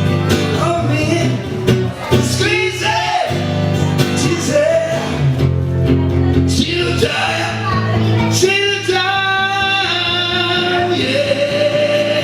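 Live band music: a singer's held, sliding notes over guitar and a steady low accompaniment.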